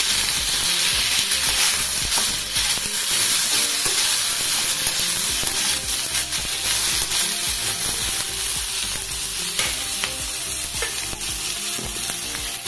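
Onions, green chillies, ginger, garlic and cashews sizzling steadily in hot ghee in a kadhai, with a spatula stirring and scraping them now and then.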